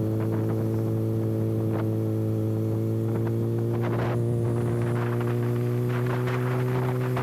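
Kawasaki ZX-6R inline-four running steadily at constant revs through an exhaust with its silencer canister removed, a steady hum that holds one pitch.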